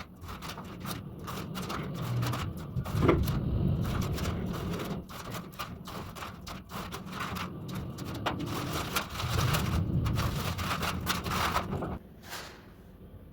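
Masking tape being ripped off a freshly painted wall, a run of irregular crackling and ripping noises over a low rumble of handling.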